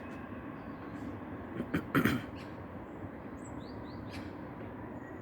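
Steady outdoor background rumble with a brief loud clatter about two seconds in, then a few faint, short high chirps from small birds near the middle.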